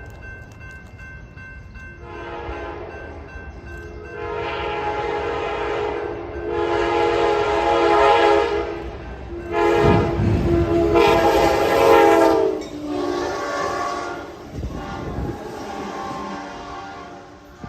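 Locomotive air horn sounding a chord in a series of long blasts, loudest around the middle, over the low rumble of the train passing close by.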